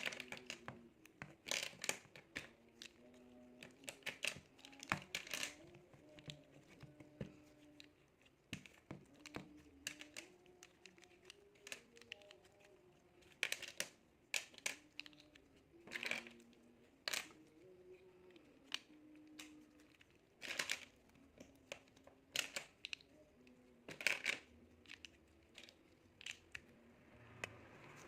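Tiny plastic building bricks clicking and tapping as they are picked up, fitted and pressed together, in irregular sharp clicks.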